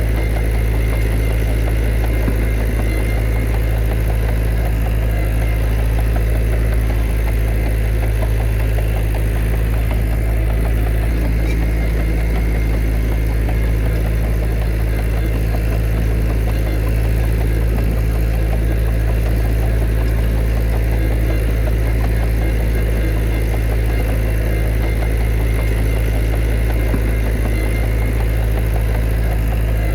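Heavy diesel engine of an earthmoving machine running steadily at an even speed, with a deep low hum and no change in pitch or level.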